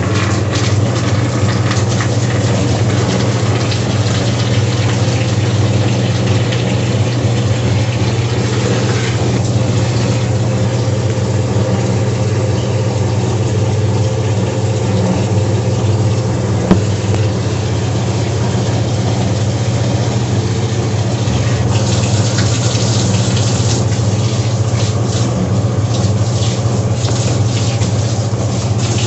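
Electrolux LT10B washing machine running with a steady low hum under a wash of water noise. A single short click sounds about two thirds of the way through, and the water hiss grows a little stronger near the end.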